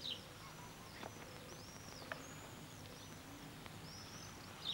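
Faint, high, arched bird chirps repeating about twice a second over a low steady outdoor hum, with a few soft clicks.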